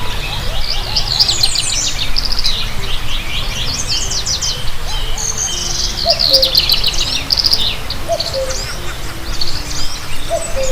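Many birds chirping and trilling in rapid, overlapping calls, over a steady low rumble.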